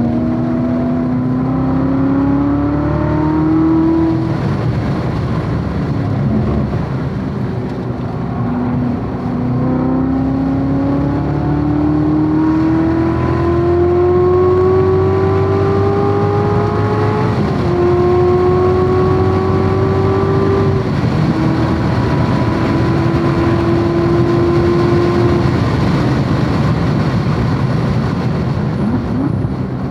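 C7 Corvette Z06's supercharged 6.2-litre V8 heard from inside the car at speed on track: the engine note climbs under full throttle, drops sharply at upshifts, then holds nearly steady for long stretches, over steady wind and tyre noise.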